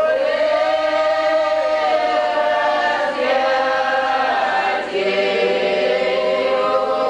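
Voices singing together in a mock Orthodox church chant, drawn out on long held notes that shift pitch, with short breaks for breath about three and five seconds in.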